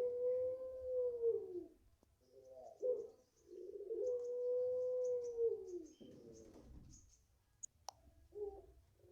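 Puter pelung, a long-cooing domestic dove, calling with two long drawn-out coos of nearly two seconds each. Each holds one steady pitch and drops at the end, with short coo notes between them. A single sharp click sounds near the end.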